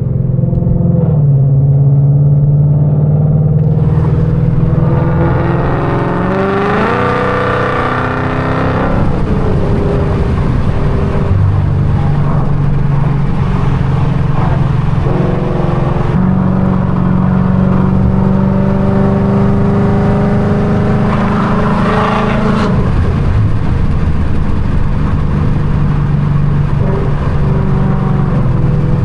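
Catless, straight-piped Mustang GT V8 exhaust, loud and raspy under throttle. The revs climb steadily from about six to nine seconds in, then hold, with further shifts in pitch partway through and near the end.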